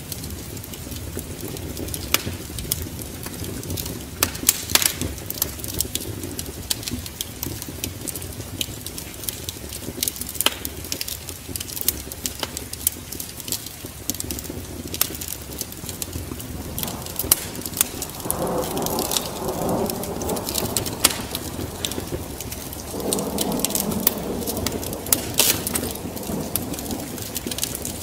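A wood fire crackling with frequent sharp pops, over a steady wash of rain and low thunder rumble. Two louder swells of deeper sound come in the second half.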